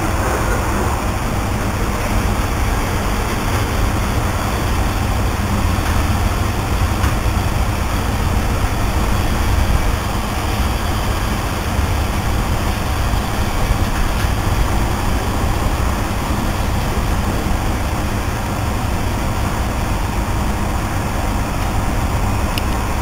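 Freight train rolling through the station, a steady rumble of its wagons on the rails.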